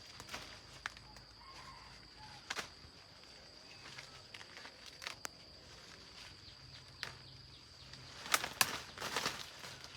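Irregular footsteps on dry ground, with a cluster of louder steps near the end, over a steady high-pitched tone.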